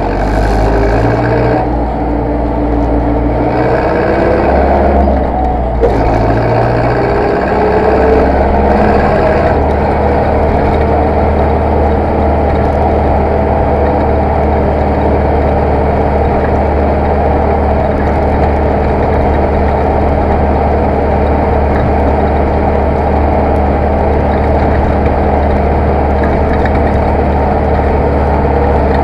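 Zetor tractor diesel engine running loud and continuous. Its pitch rises and falls over the first several seconds, with a single knock about six seconds in, then settles into a steady run.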